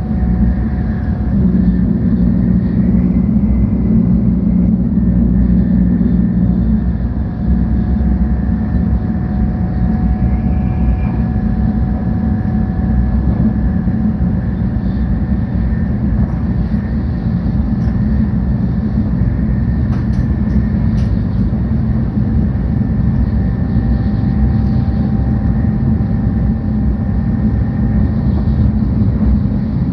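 Cabin running noise inside a 700 series Shinkansen car: a steady low rumble with faint steady whines above it.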